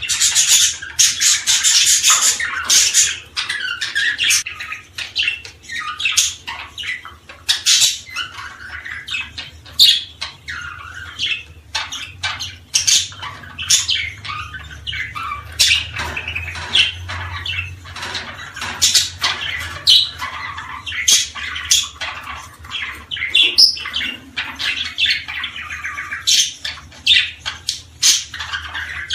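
Small songbirds chirping and trilling rapidly and without pause, many sharp high notes overlapping, over a faint steady low hum.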